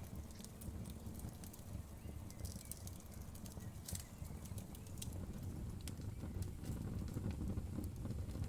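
Wood fire crackling: scattered sharp pops and snaps over a steady low rumble of flames.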